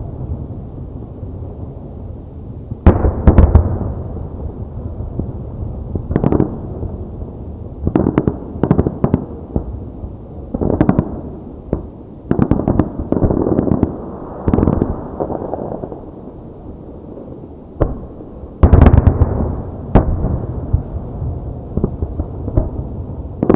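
Aerial firework shells bursting in a display: heavy booms about 3 seconds in and again near 19 seconds, with quick volleys of sharper reports between them, each trailing off in a rolling echo.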